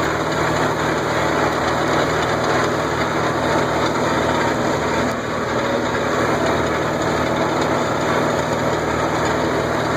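Tractor engine running steadily as the tractor drives along a ranch road.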